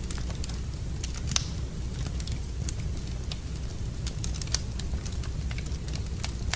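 Wood fire burning in a fireplace: irregular sharp crackles and snaps, one louder pop about a second and a half in, over a low steady roar of the flames.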